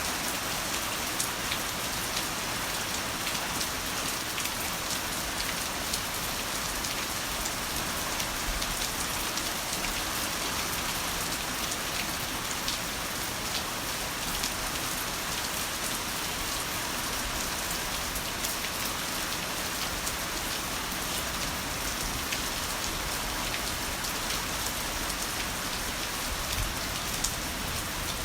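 Heavy rain falling steadily on a surface: a dense, even hiss with scattered sharper drop ticks.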